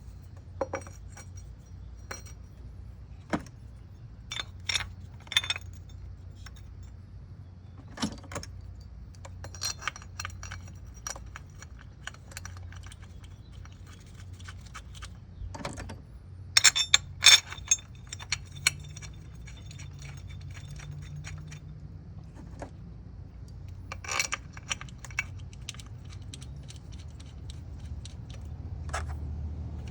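Metal tools and parts clinking and clanking as parts are refitted in the engine bay. Scattered sharp clinks with a bright metallic ring, the loudest a quick run of clanks about halfway through, over a steady low hum.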